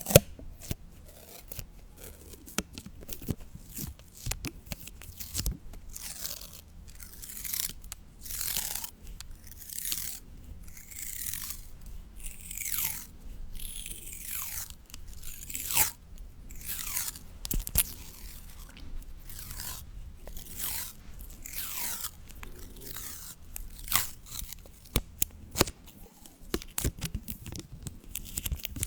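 Close-up crackling and tearing noises: many sharp clicks, with a run of short tearing swishes that fall in pitch through the middle stretch, like paper or tape being torn or peeled.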